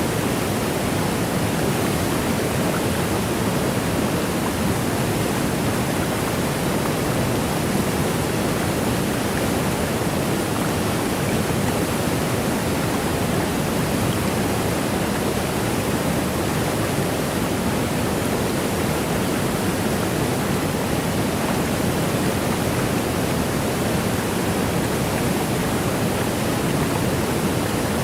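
Waterfall: a steady, unchanging rush of falling water, heaviest in the low and middle range.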